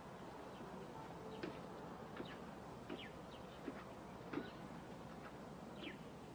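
Faint, scattered short chirps of small birds, each falling quickly in pitch, over a steady background hiss.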